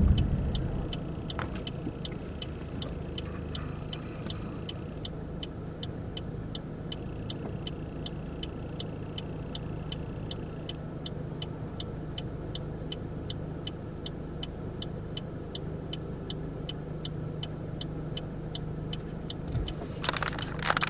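A car's turn-signal or hazard flasher clicking steadily, about two and a half ticks a second, over the low steady hum of the car's engine inside the cabin.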